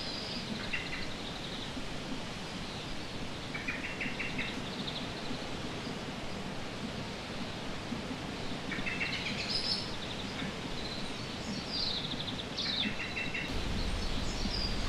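Small birds chirping in short trills, a few times through the clip, over a steady background hiss of outdoor ambience.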